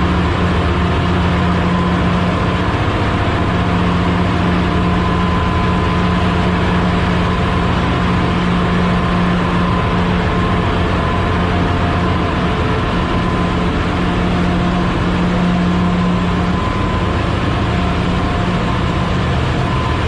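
Ship's engine room machinery running: a loud, steady drone with a strong low hum and a fainter higher whine, unchanging throughout.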